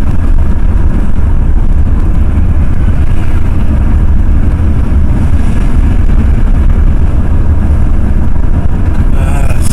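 Ford F-350 pickup driving at steady speed, its engine and road noise heard from inside the cab as a constant deep drone.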